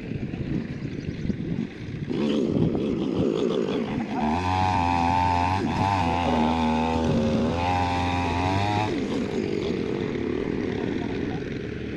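Engine running throughout, with a louder stretch of about five seconds in the middle where its pitch wavers.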